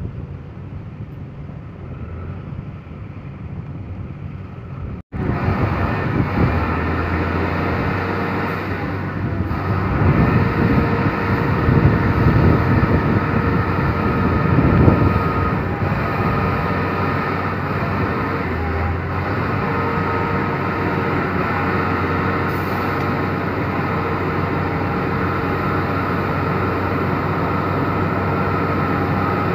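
Truck engine running steadily, a little louder for a few seconds in the middle. About five seconds in it cuts abruptly from a quieter, wind-blown stretch.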